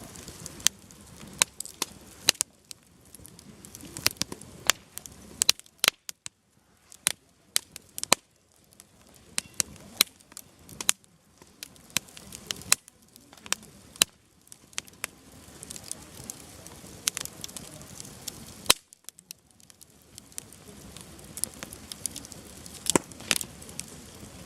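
Wood fire burning: irregular sharp pops and crackles of firewood bursting, over a soft hiss of flame.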